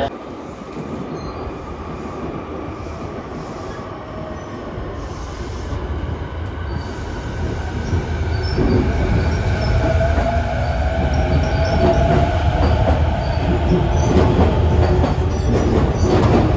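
Electric commuter train pulling into the platform: a low rumble that grows steadily louder, with a drawn-out squeal of wheels or brakes about halfway through as it slows.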